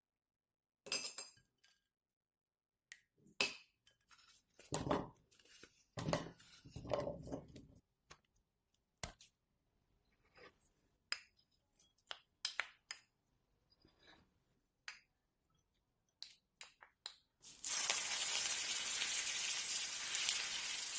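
Glass bowls and dishes clinking and being handled during kitchen food preparation, with scattered sharp clinks and short rustles. About three-quarters of the way through, a loud, steady hiss starts suddenly and keeps going.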